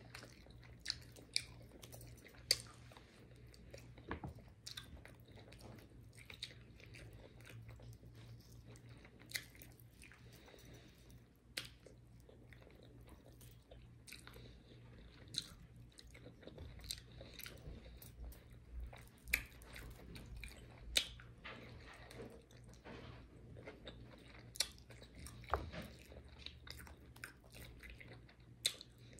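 Close-up chewing and biting of fried chicken wings, with scattered sharp crunchy clicks every second or two.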